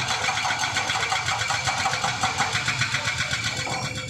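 A small engine running steadily with a fast, even rhythm.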